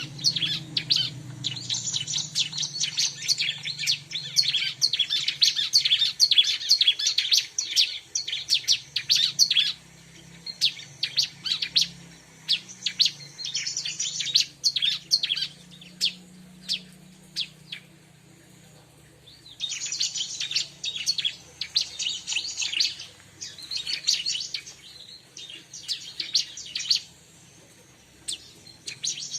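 Bar-winged prinia (ciblek) calling in rapid runs of sharp, high chirps. The runs come in bursts several seconds long, with sparser single chirps between them and a brief lull a little past the middle.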